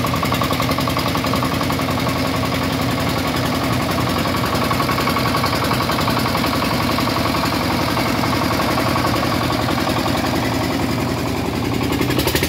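Shifeng 40 tractor-truck's diesel engine running steadily with a rapid, even beat.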